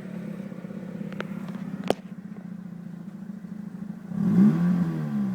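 Mazda RX-8's 1.3-litre Renesis rotary engine idling steadily, with a single sharp click about two seconds in. Near the end it is blipped once, its pitch rising and falling back to idle.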